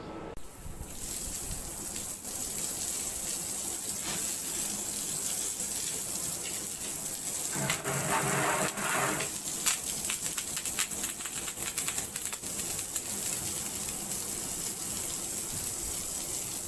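Water jetting from a homemade pressure washer nozzle: a steady, hissing gush that starts about half a second in, with a crackle of spattering drops and a brief buzz around eight seconds in.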